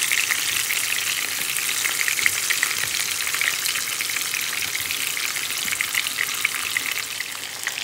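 Tomato quarters and drumstick pieces frying in hot sesame oil in a pan: a steady sizzle with dense fine crackling.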